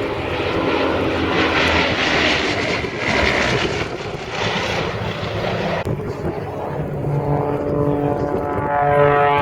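Bristol Blenheim's twin radial piston engines running as the propeller bomber flies past. A broad rushing noise gives way about six seconds in to a steadier hum with a clear pitch.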